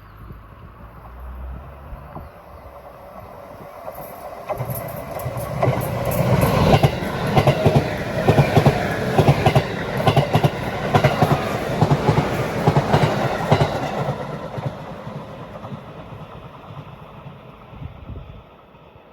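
A train passing by, its wheels clacking over the rail joints in a quick, even rhythm. It builds from about four seconds in, is loudest in the middle, and fades away near the end.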